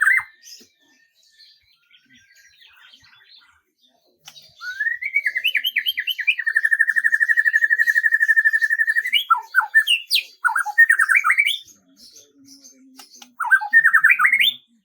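A songbird singing: after about four quiet seconds, a run of rising notes leads into a long, even, rapid trill, followed by shorter runs of notes twice more. Fainter high chirps sit in the background.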